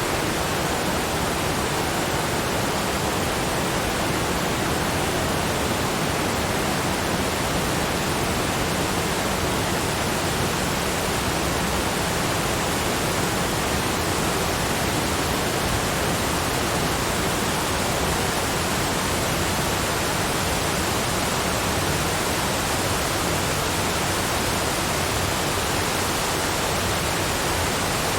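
Waterfall: rushing water falling in a steady, unbroken rush.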